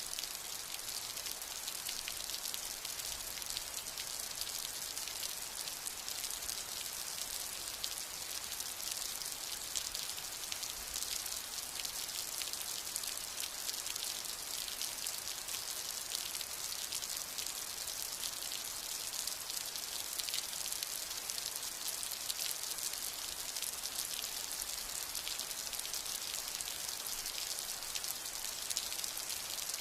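Steady rain falling, a dense, even patter of drops with the hiss sitting high.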